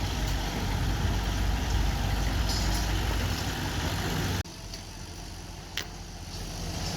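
Diesel engine of a heavy earthmoving machine running steadily. About four and a half seconds in the sound cuts abruptly to a quieter engine hum, with a single sharp click a little over a second later.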